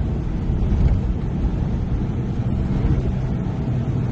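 Nissan Pathfinder driving through deep, soft sugar sand: a steady low rumble of the engine working under load and the tyres churning.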